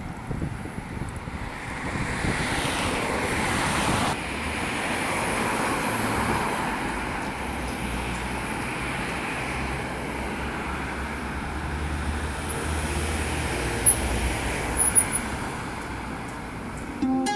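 Road traffic: a vehicle passes a few seconds in, followed by a steady low rumble of traffic, with a few faint ticks near the end.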